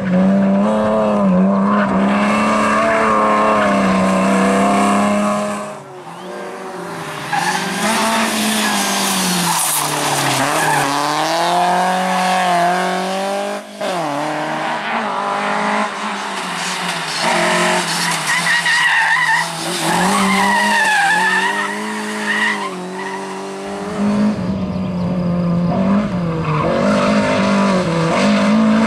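Rally cars at full attack on a sprint stage, engines revving hard with pitch rising and falling through gear changes and lifts, and tyre noise. Several different cars are heard in turn, with the sound changing abruptly between them.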